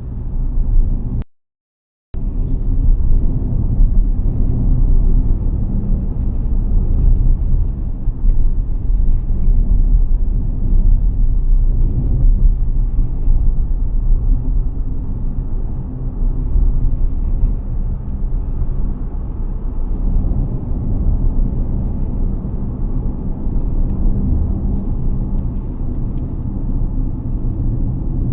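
BAIC BJ30e 1.5T hybrid SUV on the move: a steady low rumble of drivetrain and road noise. It cuts to silence for under a second, about a second in.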